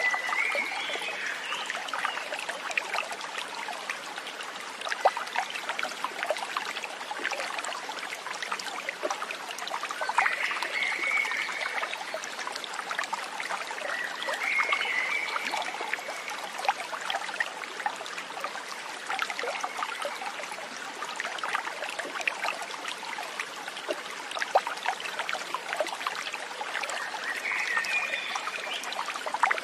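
Stream water trickling and splashing steadily, with an animal's short pitched call heard four times over it.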